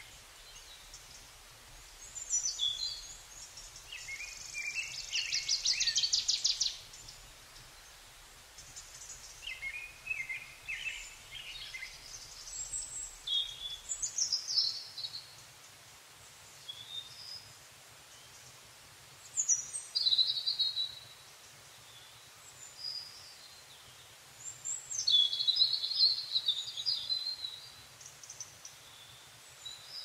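Songbirds singing in separate short phrases of high chirps and whistles, with a fast trill lasting a couple of seconds about four seconds in.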